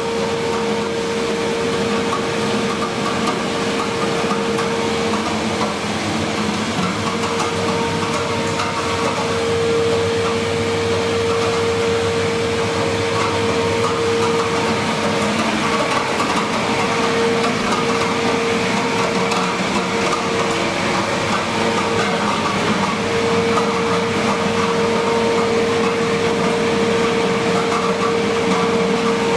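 Paint booth exhaust fan running steadily: a constant rush of air with a steady hum, drawing the paint overspray out of the booth after the final coat.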